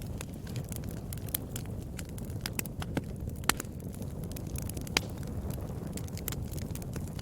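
Fire burning in a fireplace, crackling with many sharp pops over a steady low rumble. Two louder pops come about three and a half and five seconds in.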